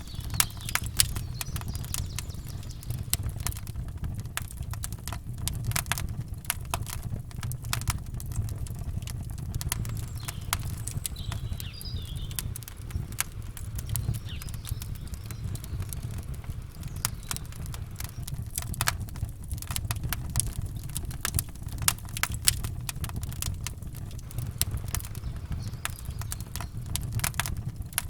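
Campfire burning, with dense irregular crackles and sharp pops over a steady low rumble.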